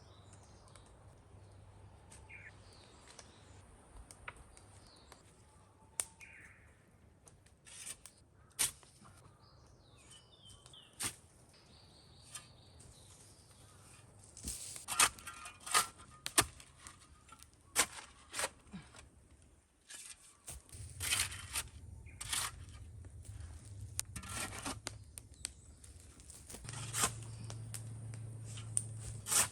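Dry wood cracking and snapping in irregular sharp cracks, sparse at first and coming thick and fast from about halfway through. Birds chirp faintly early on.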